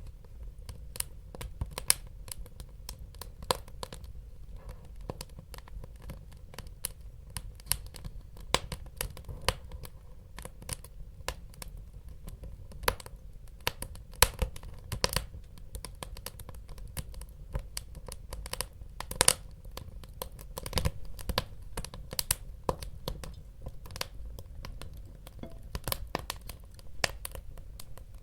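Wood fire crackling in a fireplace: irregular sharp pops and snaps, several a second at times, over a steady low rumble of the burning.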